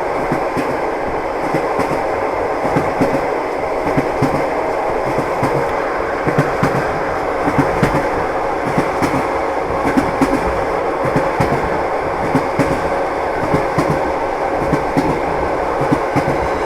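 Train running on rails, with irregular wheel clatter over a steady rumble.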